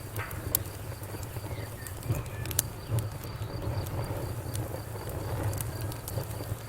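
Wood fire burning in a fireplace, crackling with scattered sharp pops over a steady low rumble of flames. A faint high chirp repeats evenly a few times a second in the background.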